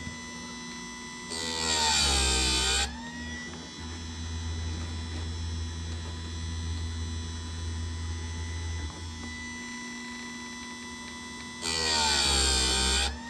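Chicago Electric electric chainsaw sharpener's motor running with a steady hum, its grinding wheel brought down onto a chain tooth twice, about ten seconds apart. Each grind lasts about a second and a half and is the loudest sound; the motor's pitch sags under the load and rises again as the wheel lifts off.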